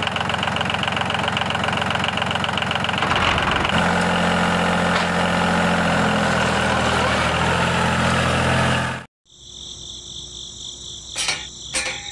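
Diesel tractor engine sound chugging at idle, changing about four seconds in to a steadier, higher-pitched running as the miniature tractor drives up with its tanker. It cuts off suddenly near nine seconds, leaving a high, steady insect-like chirping and a few sharp clicks as the metal cap is lifted off the tanker.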